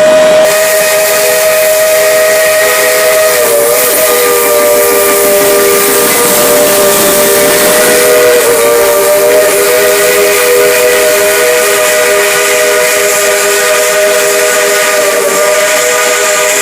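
Steam locomotive chime whistle held in one long, loud blast, several notes sounding together over a hiss of escaping steam, wavering briefly a few times.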